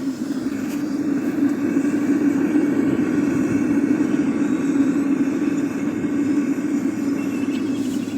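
Homemade propane burner firing into a lidded metal-melting furnace: a steady, loud rush of gas flame with a low drone.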